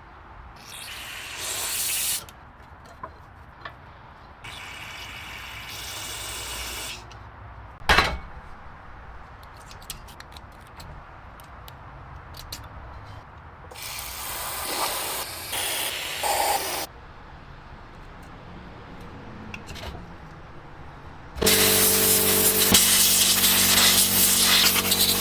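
Several separate bursts of hissing spray, a single sharp knock about 8 seconds in, then a louder spray with a steady machine hum near the end.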